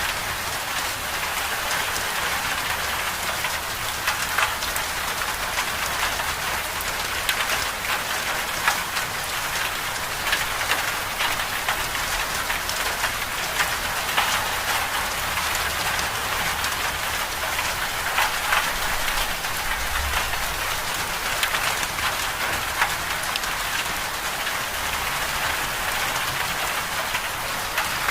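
Winter-storm precipitation falling steadily on a surface: an even hiss made of countless small drop impacts, with no thunder or gusts standing out.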